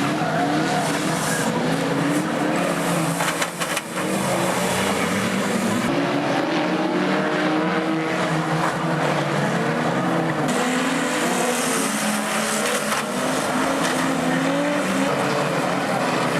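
Motor vehicle engines running and revving, their pitch wavering up and down over a steady noise.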